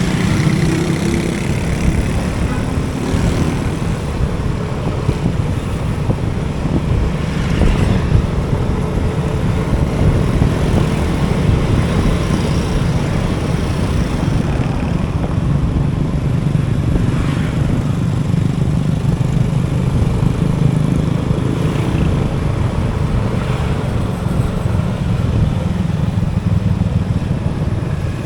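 Motorcycle engine running steadily on the move, under a constant wash of road noise.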